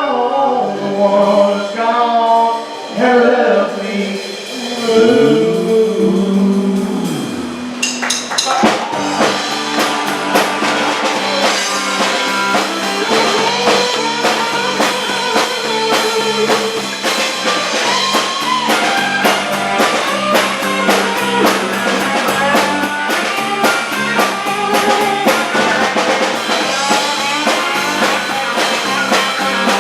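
Live band music: male voices singing in harmony for the first several seconds, ending on a long note that slides down. Then the full band comes in with drums keeping a steady beat under guitar and other instruments.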